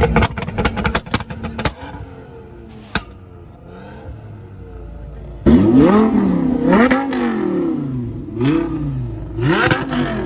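A car engine being revved. In the first two seconds its exhaust gives a rapid string of sharp pops and crackles. About five and a half seconds in it is revved again in several quick blips, each rising and falling in pitch.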